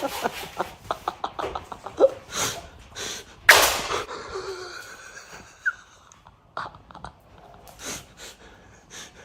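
A person's breathy snorts and gasps, with a run of small clicks in the first couple of seconds and one loud puff of breath about three and a half seconds in.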